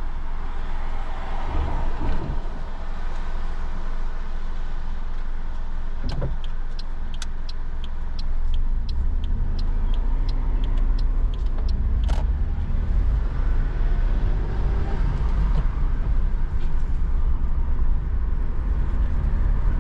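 Car cabin sound as the car pulls away from the kerb: a steady engine and road rumble that grows louder after about eight seconds. The indicator ticks about twice a second for several seconds in the middle.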